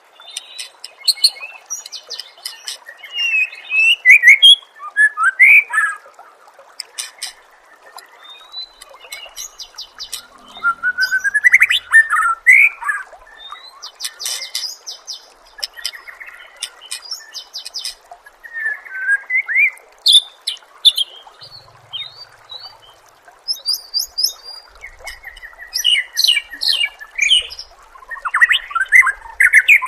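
White-rumped shama singing: a varied run of loud sweeping whistles and fast chattering trills in short phrases with brief gaps, over a steady low hiss.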